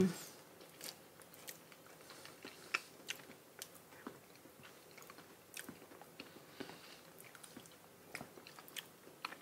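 Mouth sounds of people chewing soft, creamy Monthong durian flesh: scattered small smacks and clicks at an irregular pace.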